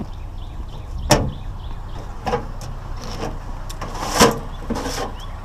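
Several sharp knocks and clanks of beat-up sheet-metal mailboxes being handled and sorted for shredding, the loudest about a second in and again about four seconds in, over a steady low rumble.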